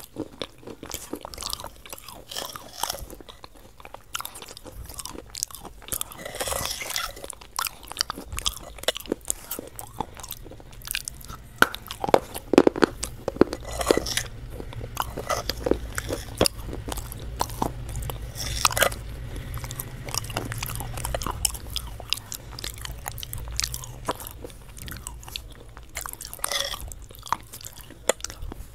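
Close-miked chewing and biting of KFC fried chicken: irregular crisp crunches of the breaded coating mixed with mouth sounds, with louder bursts of crunching a few times along the way.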